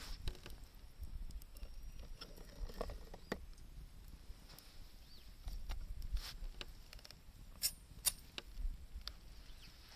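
Wood fire crackling, with scattered sharp pops, two of them sharper a little past two-thirds of the way through, over a low rumble.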